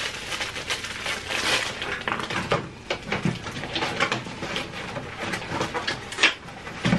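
Close-miked eating: wet chewing and mouth clicks as cheesy noodles are eaten from a fork, with a few sharper clicks near the end, like a fork against a plate.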